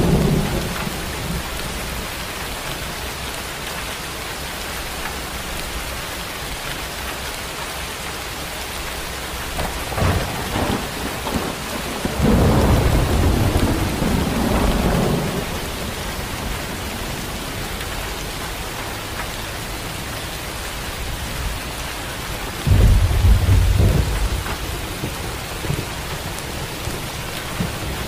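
Steady heavy rain falling, with rolls of thunder rumbling low: one about halfway through and another near the end.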